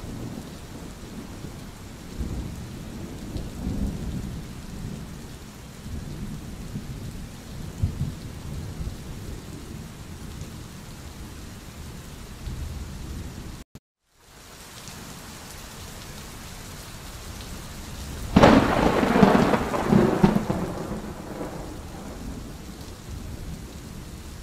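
Thunderstorm: steady rain with low rolling thunder. The sound cuts out for about half a second just past the middle, and about three quarters of the way in a loud thunderclap breaks and rumbles away over a few seconds.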